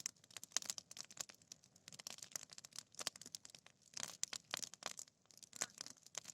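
Bonfire of dry grass crackling: a dense, irregular run of sharp crackles and pops.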